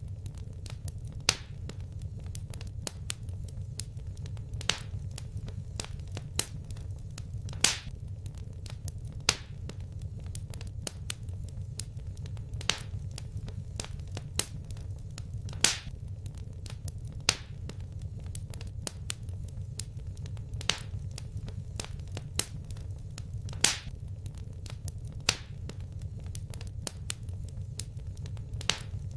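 Wood fire crackling: a steady low rumble of flames with many small sharp crackles and a louder pop every second or two.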